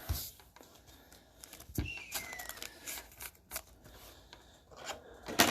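Trading cards being handled: scattered light clicks and rustles, with one sharp click near the end.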